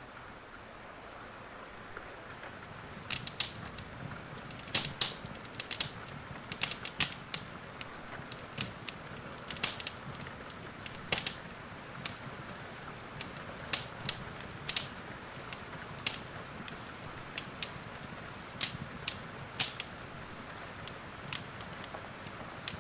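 Wood fire in a fireplace crackling, with irregular sharp pops and snaps over a steady hiss of rain. The pops thicken a few seconds in.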